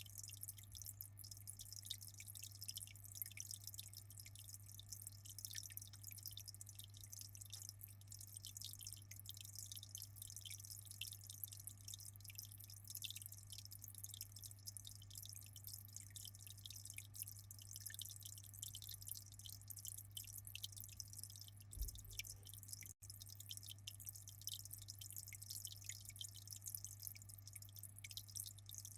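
Faint aquarium water: a dense, steady patter of small drips and splashes over a steady low hum.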